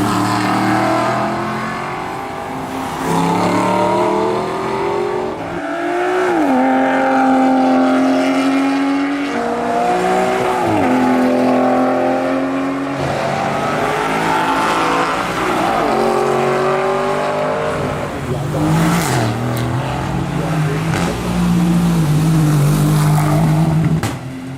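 Racing car engine running hard, its pitch climbing and then dropping sharply several times, then the sound falls away at the end.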